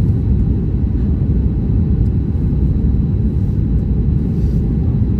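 Airplane noise during a landing: a loud, steady, even rumble concentrated in the low range, with no distinct tones or knocks.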